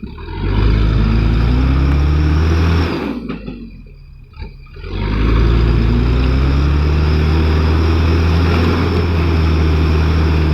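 Mitsubishi Canter light truck's diesel engine revved hard under load, trying to pull the bogged-down truck up the slope: a first push of about two and a half seconds, a brief drop, then a second, longer push that cuts off near the end.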